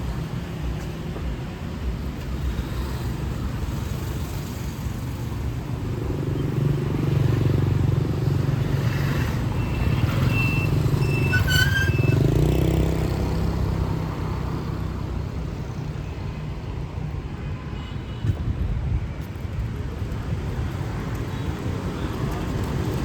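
City street traffic: motor vehicles running and passing in a steady rumble that swells in the middle. A few brief high-pitched tones sound near the middle.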